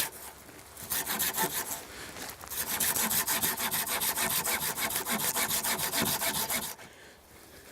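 Hand saw cutting through a wooden pole in quick, even back-and-forth strokes. It starts hesitantly, settles into a steady rhythm and stops near the end as the cut is finished.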